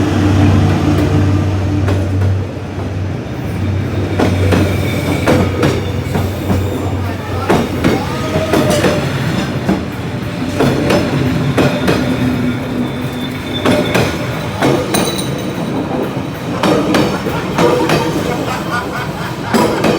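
Train running along the track: wheels clicking and knocking irregularly over the rails under a continuous rumble, with a strong low hum that drops away about two seconds in.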